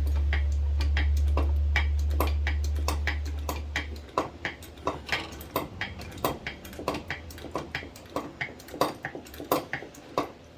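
Steady sharp mechanical clicking, about three clicks a second, under a low hum that fades out about four seconds in.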